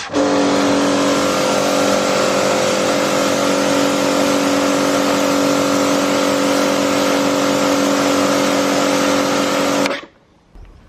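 Pressure washer running for about ten seconds: a steady motor-and-pump hum under the hiss of the water jet, starting and cutting off abruptly.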